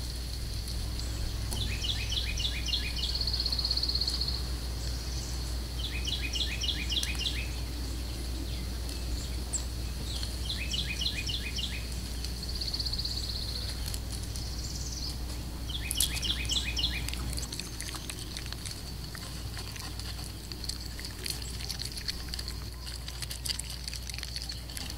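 A bird calling four times, a few seconds apart, each call a quick run of about seven short falling notes, over a steady high-pitched whine.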